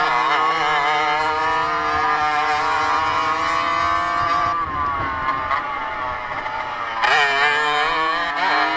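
Motocross bike engine running hard, its pitch wavering up and down as the throttle is worked. About halfway through it falls off as the throttle closes, then it revs up again near the end.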